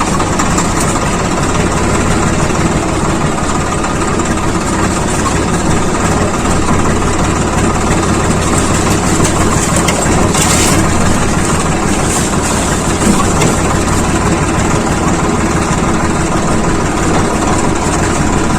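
Swaraj 855 FE tractor's diesel engine running steadily, with a short burst of hiss about ten and a half seconds in.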